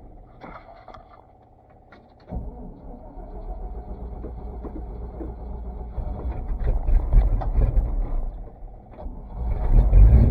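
Chevrolet C50 dump truck engine being cold started: it falls quiet for about two seconds, then catches abruptly and runs unevenly with a low rumble, dips briefly near the end and then picks up louder.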